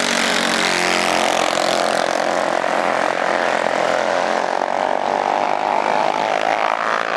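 Small mini bike engine running flat out at high revs, a steady high-pitched buzz that holds almost the same pitch and level throughout.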